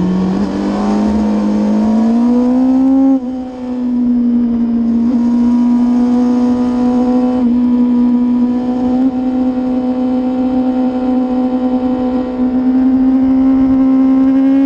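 Race motorcycle engine at high revs, climbing over the first three seconds, dropping briefly at a gear change, then holding a nearly steady high note with a few small breaks.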